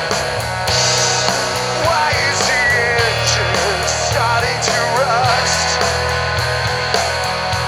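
Rock band recording playing: guitar, bass and drums on a steady beat, with a lead line that bends and wavers in pitch from about two seconds in until about five and a half seconds.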